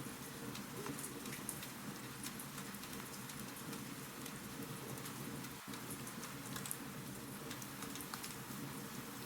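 Wood fire in a fireplace crackling: many small irregular pops and snaps over a steady hiss.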